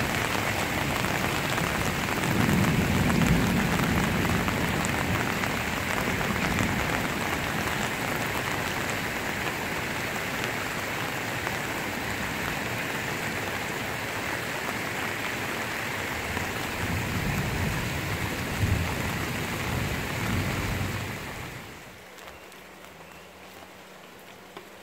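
Steady rain falling on a wet dirt street and puddles. Near the end it drops suddenly to a much quieter rain.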